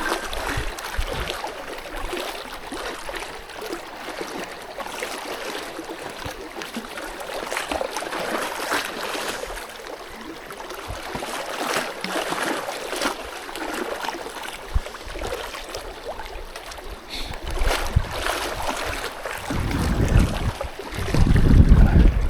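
Strong wind buffeting the microphone over a steady wash of water noise, with scattered sharp ticks; heavy low gusts come in near the end.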